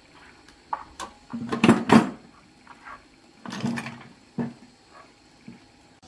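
Metal tools and engine parts being handled: a couple of sharp knocks, then a burst of clatter about two seconds in (the loudest), another burst of clatter near four seconds, and a last single knock just after.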